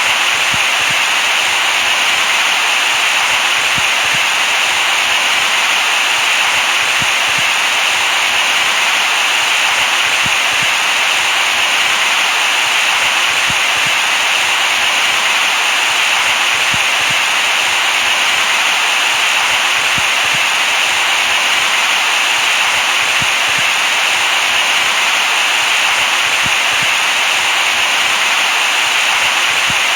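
Steady synthetic white noise, a constant hiss strongest in the upper middle, with a faint high tone that pulses about every second and a half.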